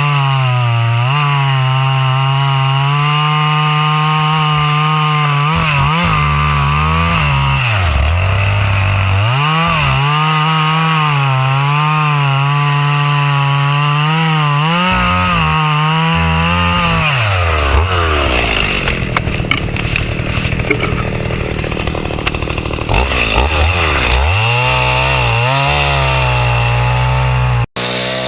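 Two-stroke chainsaw cutting into a thick tree trunk at high revs, its engine pitch sagging and recovering several times as the chain bites into the wood. Past the middle it drops low for several seconds with scattered clicks, then revs back up.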